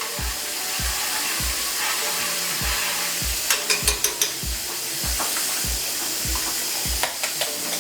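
Chicken sizzling as it fries in a pan, a steady hiss, under background music with a steady beat. A few sharp clicks come about halfway through.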